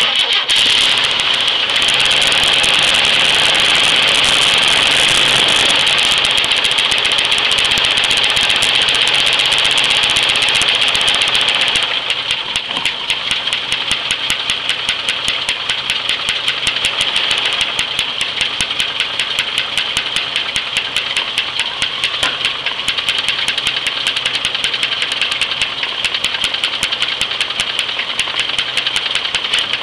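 1978 Chevy Nova's 250 straight-six engine running with a rhythmic knock, which the owner hopes is in the top end. About twelve seconds in it drops in level and the even pulsing stands out more.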